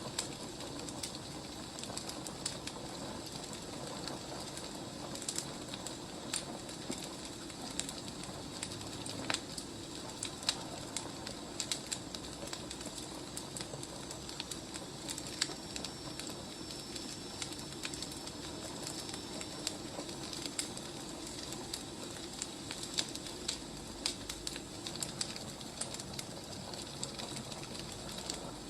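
Firewood burning with irregular crackles and pops over a steady hiss.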